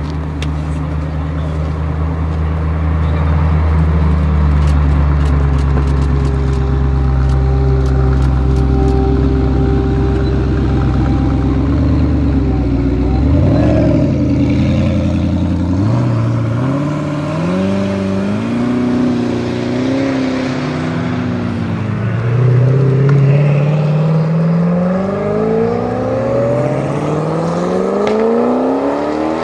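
Koenigsegg hypercar V8 engines: a deep, steady rumble for the first half, then repeated rising revs as the car accelerates, coming faster and higher near the end.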